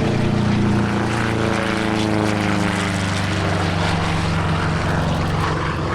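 P-47D Thunderbolt's Pratt & Whitney R-2800 radial engine as the propeller fighter flies past. Its note drops in pitch over the first few seconds as it passes, then holds steady.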